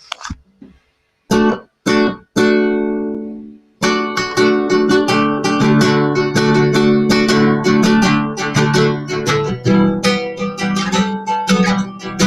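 Acoustic guitar strummed: a couple of short chord strokes and one chord left ringing, then steady rhythmic strumming from about four seconds in.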